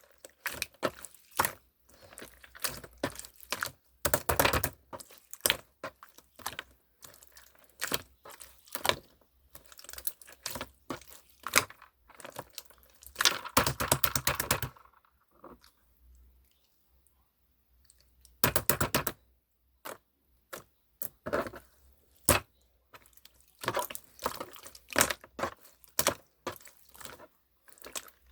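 Close-up handling sounds: irregular sharp taps and clicks, broken by a few short bursts of rapid crackling.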